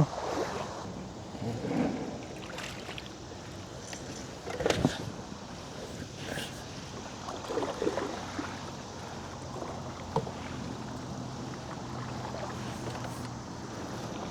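Steady traffic noise from a nearby road, with a low hum that grows stronger in the second half and a few scattered knocks.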